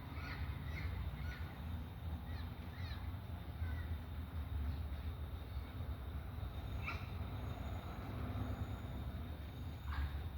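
A few short, falling bird calls, near the start, about seven seconds in and again near the end, over a steady low rumble.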